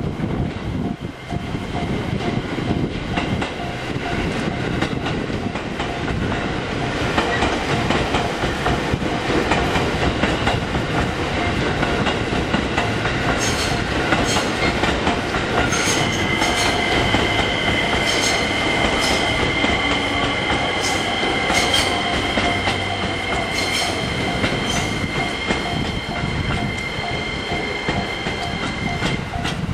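E257-series electric train running slowly over the rails, wheels clicking over rail joints. About halfway through, a steady high wheel squeal sets in and holds almost to the end.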